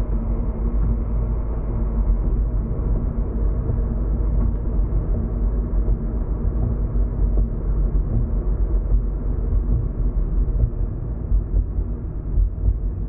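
Steady low road and engine rumble of a car driving, heard from inside the cabin, with a constant drone underneath.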